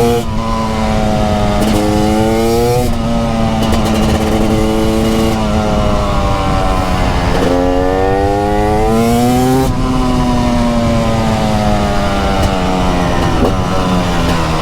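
TM Racing SMR 300 two-stroke supermoto engine under way, revving up through the gears. Its pitch climbs twice and breaks at each gear change, then falls steadily as the bike slows near the end.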